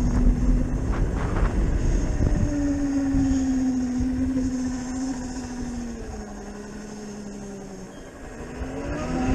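Zero FX electric motorcycle's motor whine while riding: a steady tone that sinks slowly in pitch as the bike eases off, then rises again near the end as it picks up speed, over a low rumble of wind and road noise.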